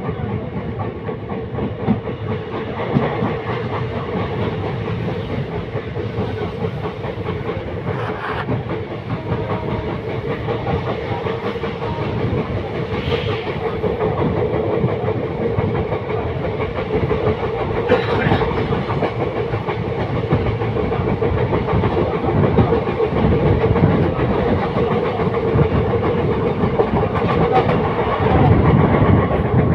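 Passenger train coach running along the track, heard from its open doorway: a steady noise of wheels on rails that grows gradually louder as the train gathers speed.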